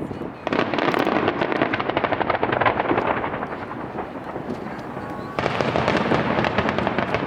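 Aerial fireworks barrage of shell bursts with dense crackling, setting in about half a second in. It thins out midway, and a fresh volley breaks in sharply about five seconds in.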